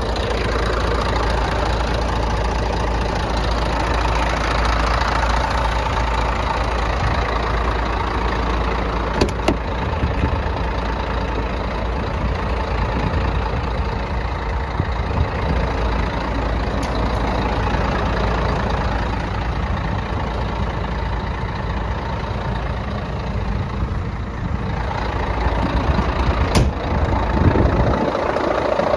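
Diesel engine of a Scania P124L 420 tractor unit, a 12-litre inline six, running steadily with diesel clatter. Two short sharp clicks are heard, one about a third of the way in and one near the end.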